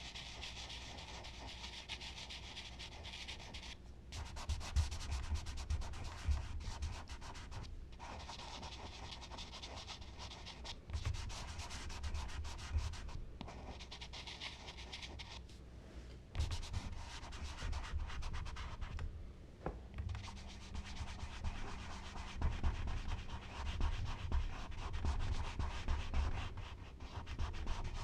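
Charcoal and blending tools rubbing across smooth Bristol paper in long, continuous strokes, stopping briefly several times, with soft low bumps from the hand and paper.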